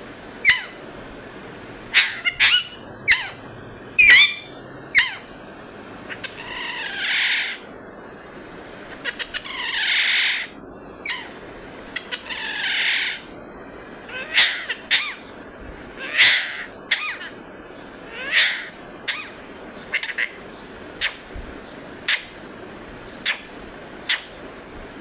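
Pet green parrot calling: a string of short, sharp, shrill squawks, with three longer, harsher screeches around the middle.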